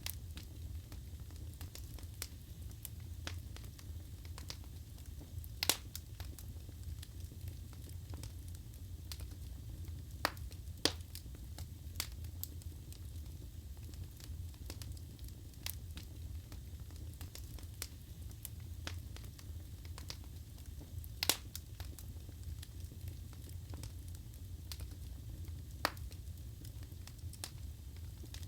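Wood fire burning in a fireplace: a steady low rumble of flames under constant small crackles, with a few sharper pops from the burning wood, the loudest about six, eleven and twenty-one seconds in.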